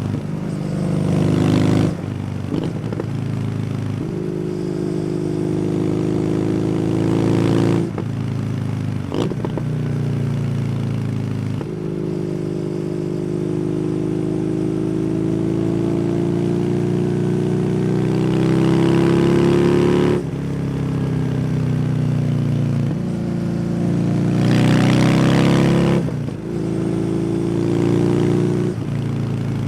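Kawasaki W800 air-cooled parallel-twin engine running through an aftermarket SC Project exhaust while riding. Its pitch climbs under throttle and drops sharply about five times, at gear changes or as the throttle is closed, with the longest pull lasting about eight seconds from just before the middle.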